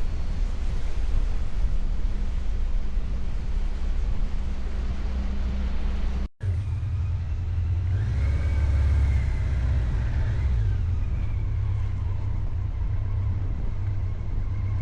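Low, steady engine rumble, cut off abruptly about six seconds in. After the cut another engine rumble continues, with a pitched tone that rises and falls for a couple of seconds.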